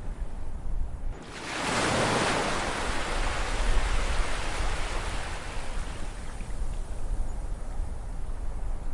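Ocean waves on a shore: one wave breaks about a second and a half in, its hiss swelling and then slowly fading over several seconds. A steady low rumble of surf runs underneath.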